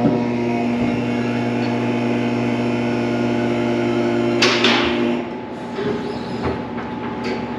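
A machine runs with a steady pitched hum, then stops about five seconds in, just after a short burst of hiss; a few light clicks follow.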